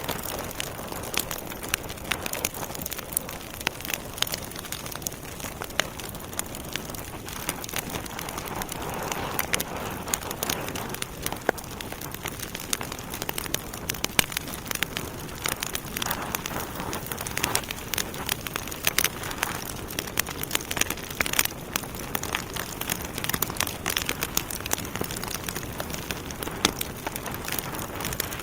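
Wood fire burning in a fireplace: logs crackling and popping in many sharp, irregular snaps over a steady hiss of flame.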